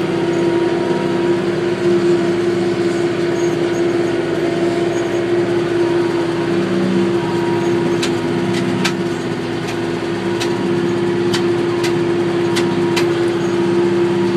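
McCormick GX50 utility tractor's diesel engine running steadily under load, pulling a bush hog (rotary cutter), heard from inside the cab. In the second half comes a scatter of sharp clicks.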